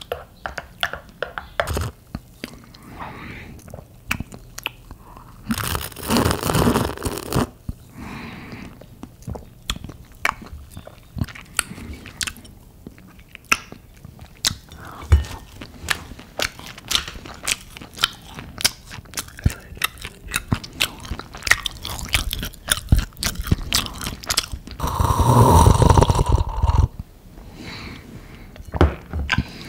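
Close-up chewing and crunching of pan-toasted garlic butter bread, with many small crisp crackles. There are two louder, longer noisy stretches, about six seconds in and again around twenty-five seconds.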